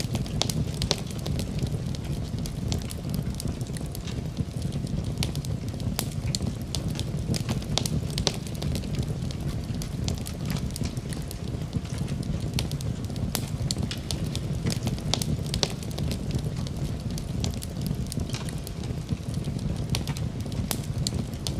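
Wood fire burning in a fireplace, with a steady low rumble of the flames and frequent sharp, irregular crackles and pops.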